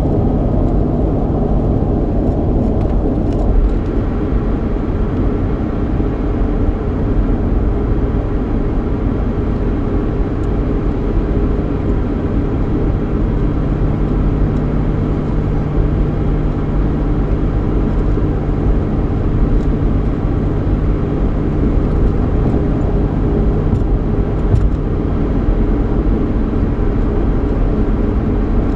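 Cabin noise inside a moving 3.8-litre V6 Mustang: a steady low drone of road noise and engine hum, with a few faint ticks.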